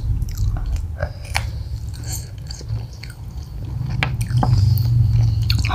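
Close-up chewing and biting of fried chicken, with wet mouth sounds and short crisp clicks, heavier near the end.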